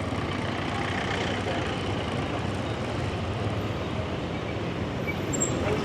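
Steady noise of a motorbike being ridden through town: the bike's engine running with road and traffic noise, level and unchanging throughout.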